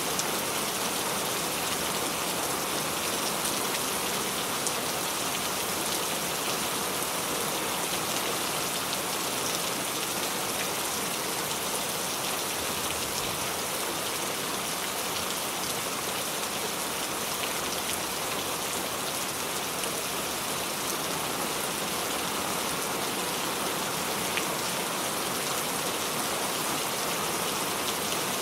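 Steady rain falling, an even hiss of many drops hitting a surface with faint scattered drop ticks.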